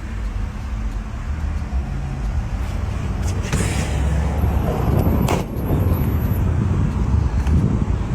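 A car running, with a steady low rumble and a sharp click about five and a half seconds in.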